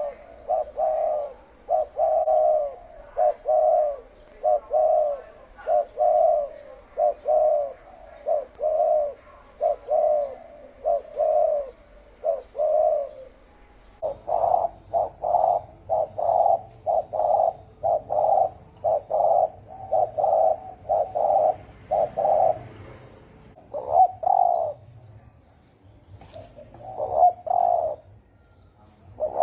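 Spotted doves cooing in the deep, hoarse 'thổ ồm' style: a fast, unbroken run of short coos, which thins out into spaced groups of coos in the last third.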